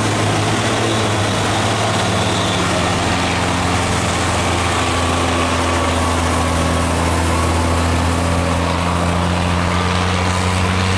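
Heavy diesel truck engine pulling under load, a steady low drone. A second, higher tone comes in about halfway through.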